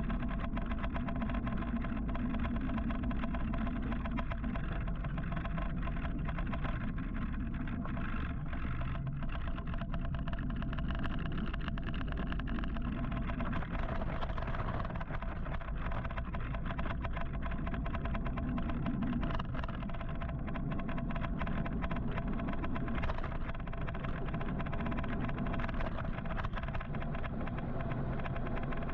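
Road traffic heard from a moving electric motorcycle: a steady low rumble of wind and road noise with passing vehicles mixed in.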